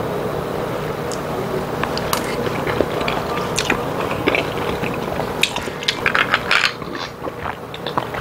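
Close-miked chewing of a mouthful of chewy, moist boneless chicken feet in rosé sauce, with small wet clicks and smacks. Near the end there are sips from a glass of iced soju and soda water.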